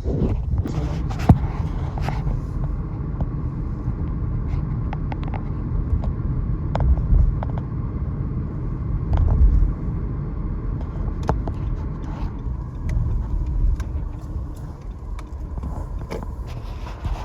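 Steady low rumble of a moving car, with scattered light clicks and knocks over it.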